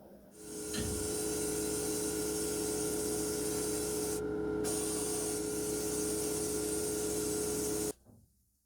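A small motor-driven workshop tool runs with a steady hum and strong hissing, starting half a second in and cutting off abruptly near the end. The hiss drops out for about half a second midway while the hum carries on.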